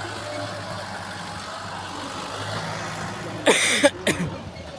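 Four-wheel-drive tractor engine running steadily. About three and a half seconds in there is a brief loud burst of noise with a voice.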